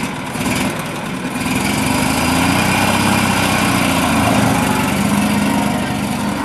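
Vintage open touring car's engine running and revving as the car pulls away, getting louder about a second and a half in and rising and falling in pitch.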